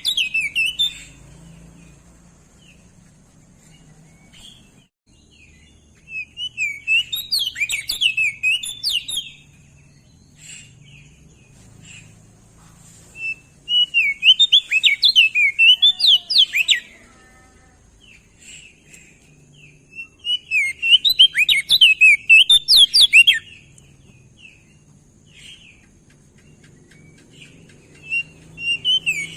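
Crested white-eye (Opior Jambul) singing: rapid bursts of quick, high chirping notes, each bout lasting two to three seconds and coming back about every seven seconds.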